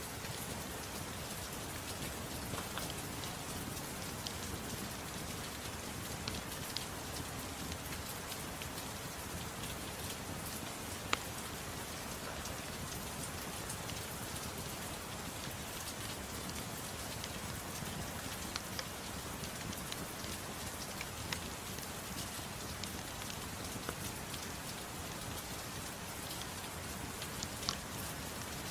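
Steady rain with scattered sharp pops and clicks on top, typical of a crackling fireplace; the loudest pop comes about eleven seconds in.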